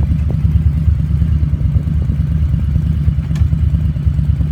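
Harley-Davidson motorcycle running under way, a steady loud low rumble.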